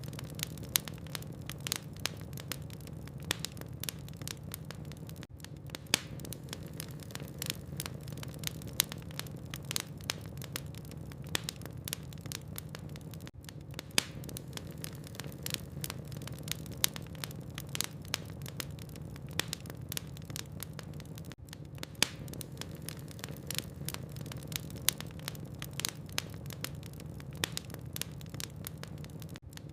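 Burning logs crackling in a fireplace: frequent small, sharp pops at irregular intervals over a steady low hum.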